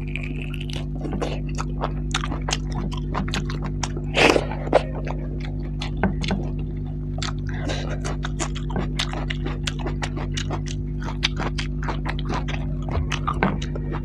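Close-miked mouth sounds of someone eating curry and rice by hand: a rapid series of wet chewing clicks and lip smacks, with one louder bite or slurp about four seconds in. A steady low hum runs underneath.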